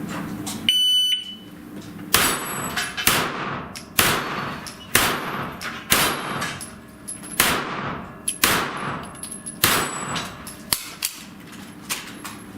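A shot timer's electronic start beep, then a string of about a dozen gunshots at steel targets, roughly one a second. Several shots are followed by the brief high ring of a steel plate being hit.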